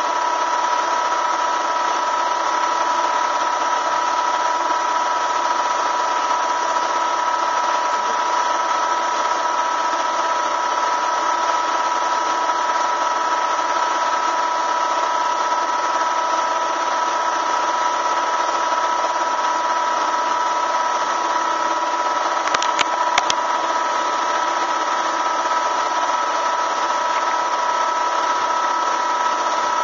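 A motor running steadily with an even, high whine. A few short clicks come about three quarters of the way through.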